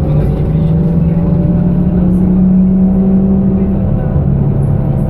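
BKM-221 trolleybus under way, heard from inside the cabin: the electric traction motor's whine rises slowly in pitch as the trolleybus picks up speed, over a bed of road and running noise. About four seconds in, the strongest low tone drops away.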